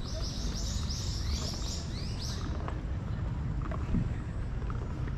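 A small bird calling: a quick series of about eight high, rising chirps in the first two and a half seconds, then a few fainter ones. Under it runs a steady low rumble.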